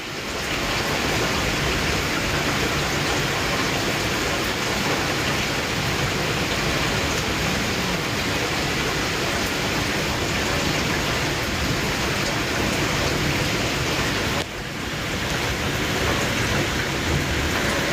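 Heavy rain falling steadily in a thunderstorm, a dense, even hiss that dips briefly about fourteen and a half seconds in, then recovers.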